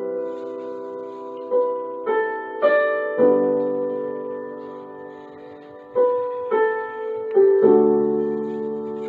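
Background piano music, slow and gentle, with notes and chords struck every second or so and left to ring and fade.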